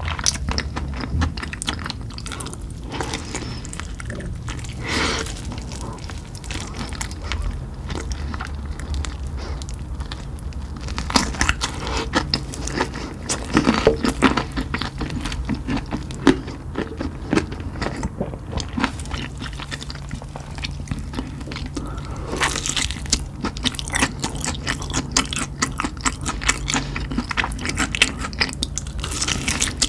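Close-up eating sounds of spicy chicken: repeated bites, crunching and wet chewing in an irregular run of short crackles and smacks, busier in the middle and near the end.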